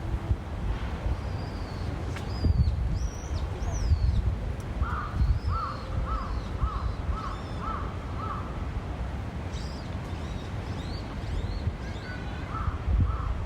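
A crow cawing in a run of about seven calls, about two a second, then a few more near the end, with small birds chirping high above a steady low rumble.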